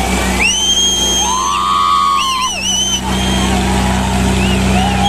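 Heavy tractor diesel engines running steadily under load, with people shouting rising-and-falling calls over them.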